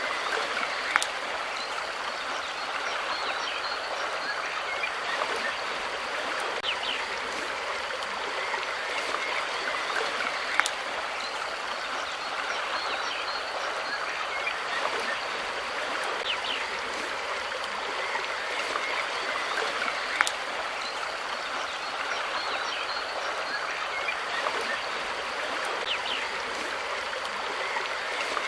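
Steady rush of running water, like a stream, with a few faint chirps and a sharp click about every ten seconds.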